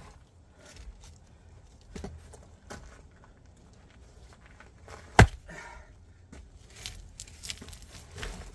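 An axe strikes a firewood log once, sharply, about five seconds in. Lighter knocks and footsteps sound around it as the wood is handled.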